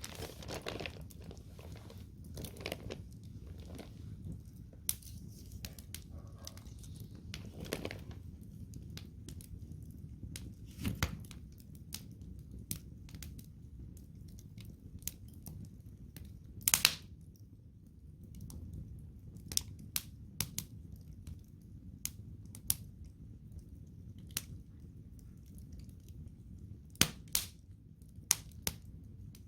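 Wood fire of burning logs crackling, with irregular sharp pops, a few of them louder, over a low steady rumble.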